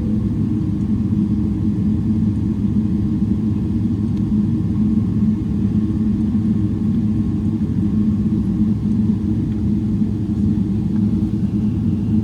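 Steady low rumble heard inside the cabin of a Boeing 777-300ER on the ground, its GE90 engines running, with a faint steady whine above it.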